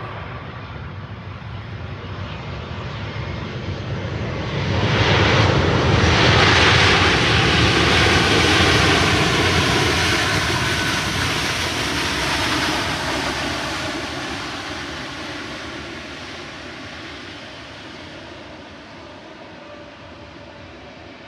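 Airbus A320's IAE V2500 turbofan engines spooling up sharply into reverse thrust after touchdown, running loud for several seconds, then spooling down and fading to a low rumble as the airliner slows on the landing roll.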